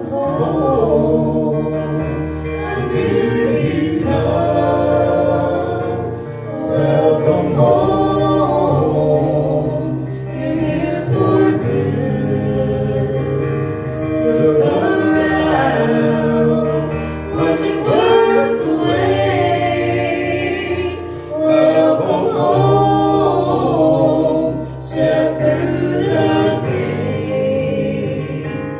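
Music: a choir singing in held, flowing phrases over steady low notes.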